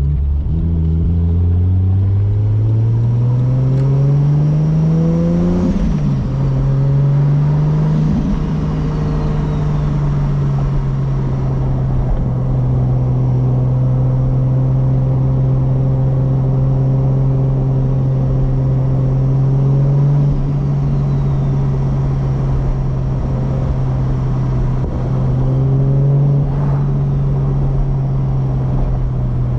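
Turbocharged 2JZ straight-six of a Toyota Supra MK4 pulling up through the revs for about six seconds, dropping at a gear change, then running at a steady cruise with small throttle changes.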